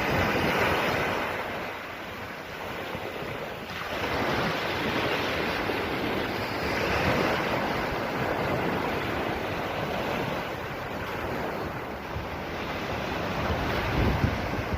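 Sea waves breaking and washing on the shore, surging and ebbing every few seconds. Wind rumbles on the microphone, strongest near the end.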